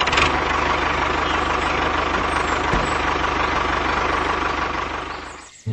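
Truck engine running steadily with a fast, even low chugging, fading out about five seconds in.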